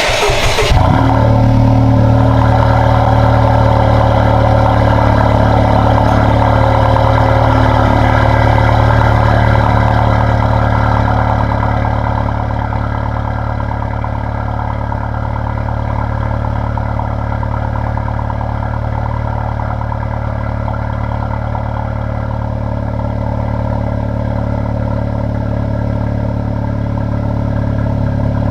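Honda Civic Type R FK2's turbocharged 2.0-litre four-cylinder, through a Milltek cat-back exhaust, cold-starting: it catches with a short burst and settles into a loud, steady fast idle. The idle eases a little quieter about ten seconds in.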